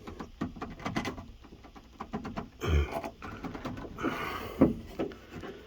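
Rubber window gasket being pushed and worked into a pickup door's window channel: scattered clicks and rubbing, with a stronger thump about three seconds in and another near the end. The gasket is sticking and won't slide down the channel.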